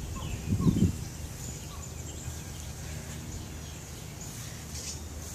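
Outdoor background with faint, scattered bird chirps over a steady low rumble. A brief low thump comes just under a second in.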